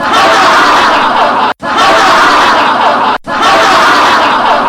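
A loud laughter sound effect, played three times in a row, each about a second and a half long with an abrupt cut between.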